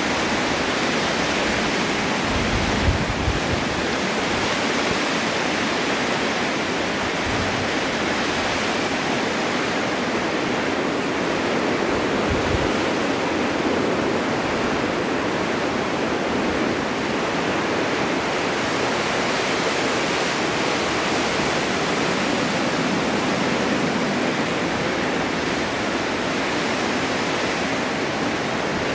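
Snowstorm wind blowing as a steady, even hiss and rush, with a few brief low buffets of gusts in the first half.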